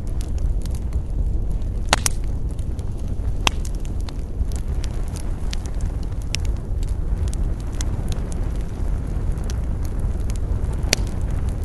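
Campfire burning with irregular crackles over a steady low rumble, with louder sharp pops about two seconds in, at three and a half seconds, and near the end.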